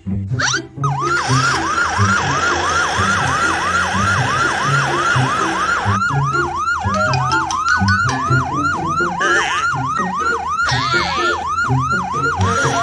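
Ambulance siren, a fast yelp that swoops up and down about three times a second, over background music with a beat.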